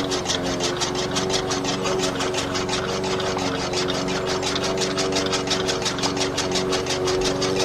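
A small motor running steadily at a constant speed, with a fast, even ticking of about eight beats a second.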